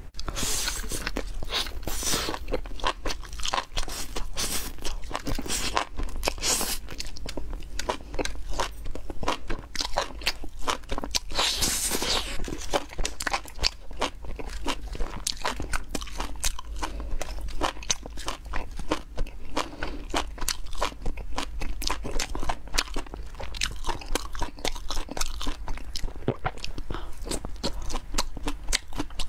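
A person chewing and biting spicy skewered enoki mushrooms close to the microphone: a continuous run of crunchy, wet clicks over a low steady hum.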